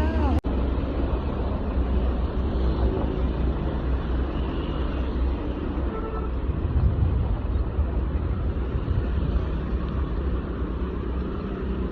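Diesel truck engine running steadily, a low rumble mixed with road noise. It starts after an abrupt cut about half a second in.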